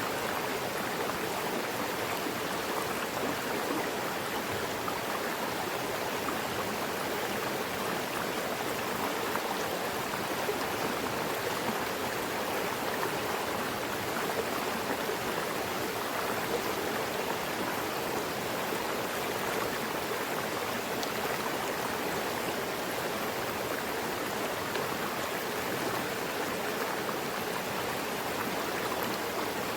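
Mountain river flowing over rocks: a steady, unbroken rush and babble of water.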